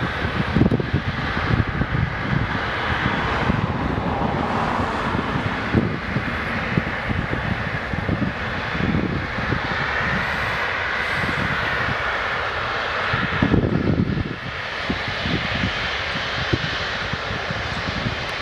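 Boeing 777-300ER's GE90 jet engines running at low taxi thrust, a steady whine-and-roar that swells briefly past the middle, with gusty wind rumbling on the microphone.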